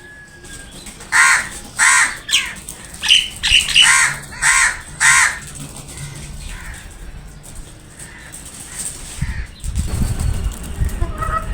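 Crows cawing: about six harsh caws roughly 0.7 s apart in the first half, then a low rumble from about three-quarters of the way in.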